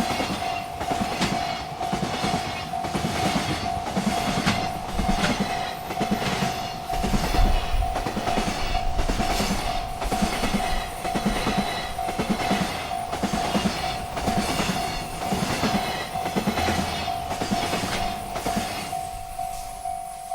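Freight train rolling through a railroad crossing, its wheels clacking over the rails in a steady rhythm of about two clacks a second. A steady ringing tone from the crossing signal sounds throughout. The train noise falls away near the end while the crossing tone keeps going.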